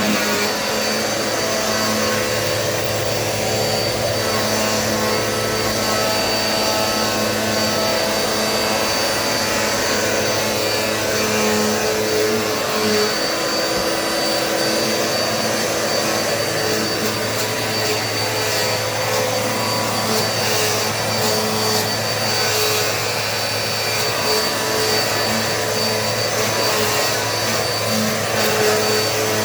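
Dirt Devil Multi-Surface bagless vacuum running steadily while cleaning, a constant motor hum with a high steady whine.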